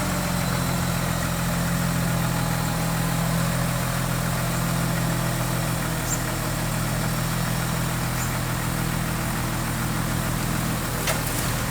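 Diesel engine of heavy construction equipment running steadily at an even speed, with a light click near the end.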